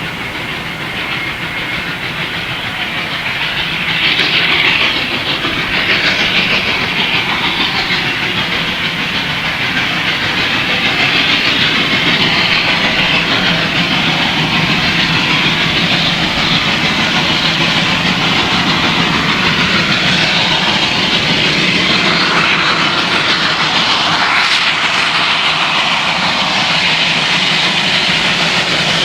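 Steam-hauled train running along the track, its wheels clattering over the rail joints with a steady hiss. It grows louder about four seconds in and then holds steady.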